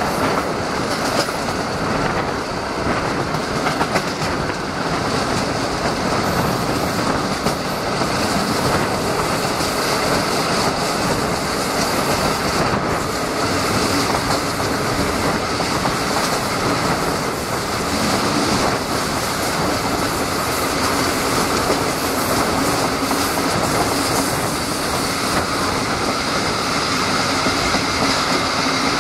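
Passenger train running along the track, heard at the open window of a coach: a steady rumble and rush of the wheels on the rails.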